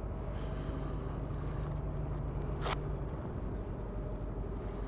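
A steady low engine drone with a held hum that drops away about three seconds in, and one short sharp click just before that.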